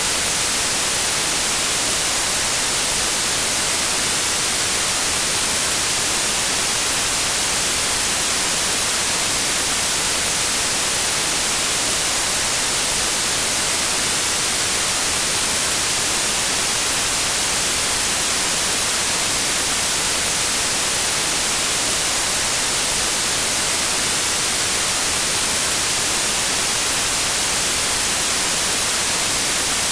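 Steady synthetic white noise: an even, unchanging hiss, brightest in the high end, with no other sounds.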